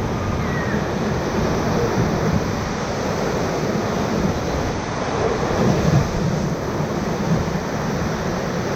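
Whitewater rapids rushing steadily around a raft, with a slight swell in the noise about six seconds in.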